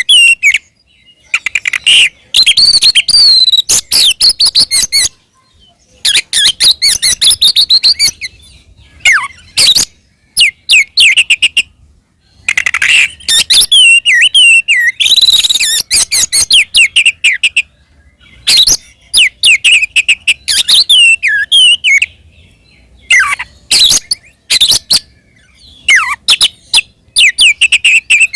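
Oriental magpie-robin (kacer) singing loudly in full, combative song: long runs of fast, varied whistled and chattering phrases, broken every few seconds by short pauses of about a second.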